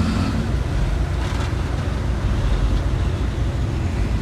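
Heavy earthmoving machine's diesel engine running steadily, a deep low rumble.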